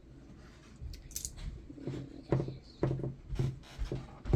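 Small plastic glitter bottles being handled and worked open: scratching and rubbing with a run of soft irregular knocks, getting busier about halfway through.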